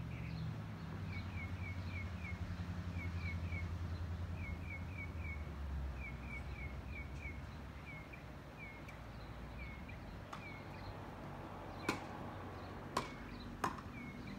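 Outdoor ambience: a small bird chirping over and over in quick little groups of short down-slurred notes, over a low rumble that fades about six seconds in. Three sharp knocks near the end.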